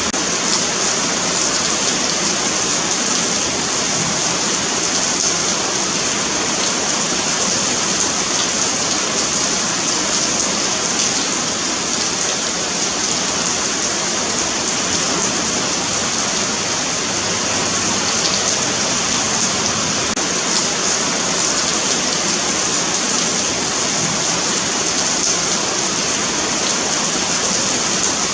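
Steady rain falling on a paved sidewalk: a continuous, even hiss of drops spattering on the pavement.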